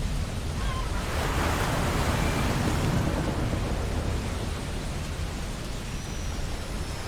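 Ocean waves breaking and washing up a beach, one wave swelling about a second in and easing off over the next few seconds, over a steady low rumble of surf.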